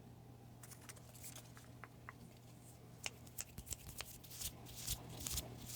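Slips of paper rustling and crinkling close to the microphone as a hand digs through a hat full of paper name slips, with scattered light clicks that get busier in the second half.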